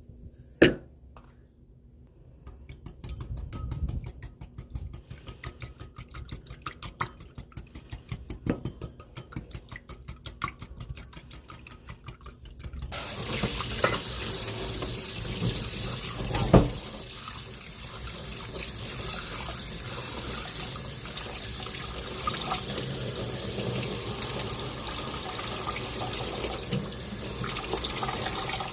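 Rapid, even tapping for the first ten seconds or so, then a kitchen tap starts running into a sink about halfway in and keeps running steadily.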